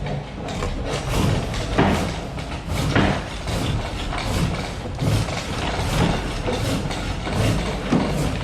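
Rhythmic wooden thumps, about three every two seconds, each with a short rushing scrape, from hand-powered woodworking.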